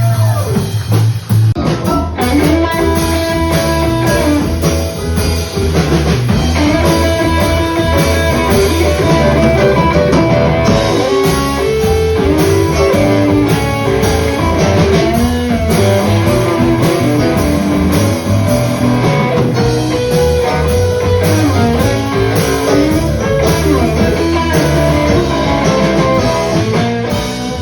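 A band playing live: an instrumental passage led by guitar over bass and drum kit, in a blues-rock style. The music falls away near the end.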